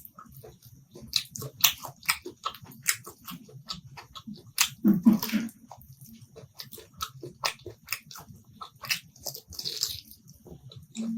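Close-miked mouth sounds of eating mutton curry: chewing and gnawing meat off a bone, with irregular wet smacks and crunchy clicks. A louder bite comes about halfway through.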